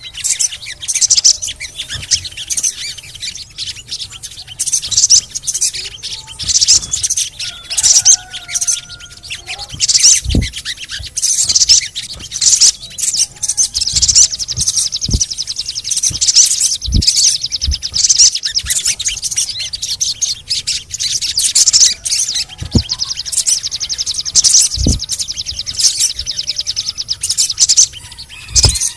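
Sogon birds chirping and chattering in quick high notes, with long fast rattling trills through the middle and again in the second half. A few soft low thumps are scattered through.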